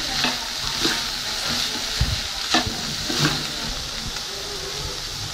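Crumbled goat blood fry sizzling in a nonstick pan as a slotted metal spatula stirs and scrapes through it. There are several sharper scrapes of the spatula in the first three seconds and fewer after.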